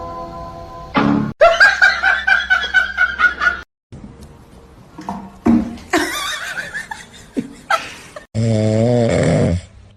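A person laughing in quick rhythmic bursts for about two seconds, then shorter laughs after a sudden cut, and a loud, held, wavering voice-like sound near the end.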